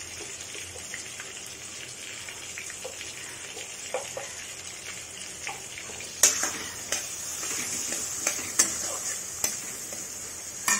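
Tomato pieces sizzling steadily in hot oil in a metal kadai. From about six seconds in, a metal spatula clicks and scrapes against the pan as they are stirred.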